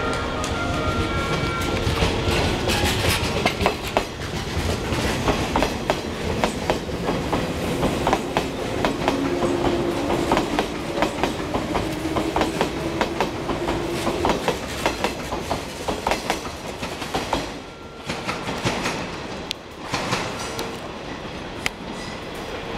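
485 series electric train running on the rails, its wheels clicking over rail joints in an uneven clickety-clack with a steady rumble underneath.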